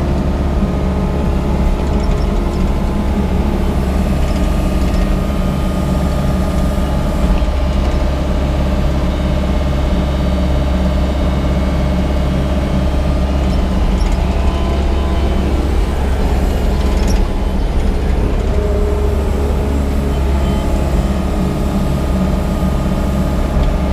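Yanmar crawler excavator's diesel engine running steadily while it digs with the offset boom, a constant drone with a few faint knocks.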